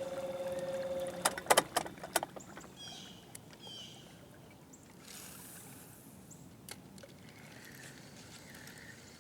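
A boat motor's steady hum cuts off about a second in, followed by a quick run of sharp knocks and clunks, the loudest sounds here. Faint bird chirps follow.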